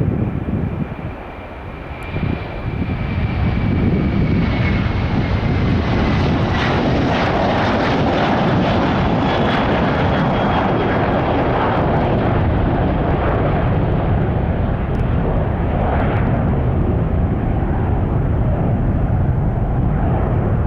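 Jet airliner taking off, its engines at take-off power: loud, steady engine noise that swells a couple of seconds in, with faint high whines sliding downward in pitch.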